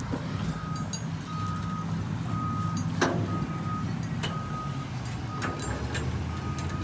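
Reversing alarm on heavy equipment beeping about once a second, a steady single-pitch tone, over a diesel engine running. A couple of sharp knocks come about three and four seconds in.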